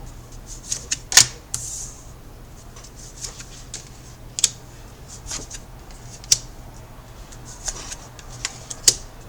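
Tarot cards being handled and laid out on a table: irregular light clicks and taps, with a few sharper snaps, over a faint low hum.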